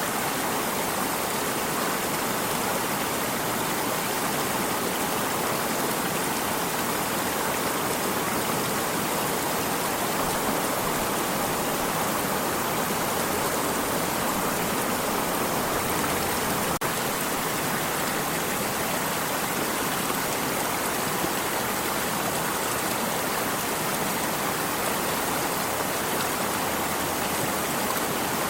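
Water stream running with a steady, even rushing. A single faint click sounds about halfway through.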